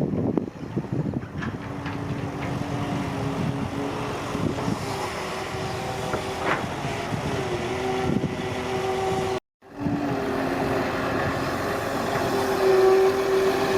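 Excavator's diesel engine running steadily, with a few brief metallic clanks. The sound cuts out completely for a moment about nine and a half seconds in, then the engine carries on a little louder toward the end.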